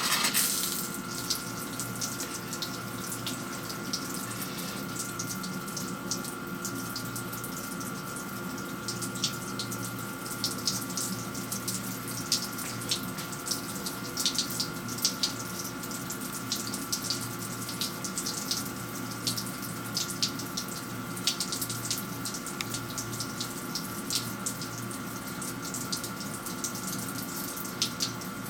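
Flood coolant spraying from a lathe turret's copper coolant line and splashing steadily, with a steady machine hum underneath.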